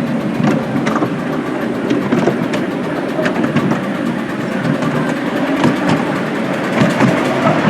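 Miniature railway train running along the track: a steady rumble with irregular sharp clicks from the wheels on the rails.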